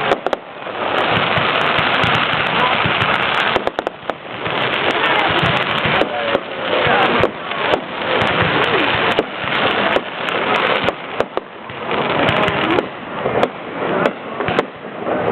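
Aerial fireworks display: dense, continuous crackling packed with many sharp bangs and pops. The crackle eases briefly about four seconds in, then builds again.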